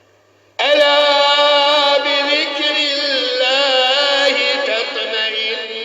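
A man reciting the Quran in a melodic chanted style. After a short pause, a long held note with wavering ornaments begins about half a second in and carries on.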